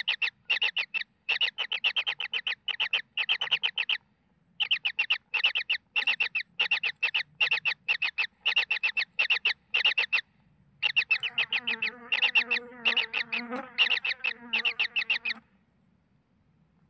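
Kingfisher chicks begging: short buzzy rasping calls repeated about twice a second, with two brief pauses. From a little past the middle a second, lower-pitched call joins in, and the calling stops abruptly a second or so before the end.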